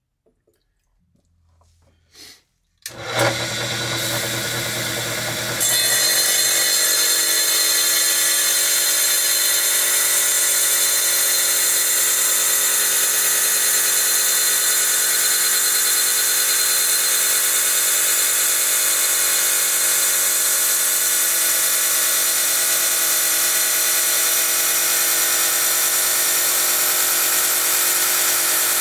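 A wet tile saw starts up about three seconds in and runs steadily. A couple of seconds later the sound grows louder and fuller as the freshly pinged diamond blade bites into hard jasper, and it keeps cutting steadily.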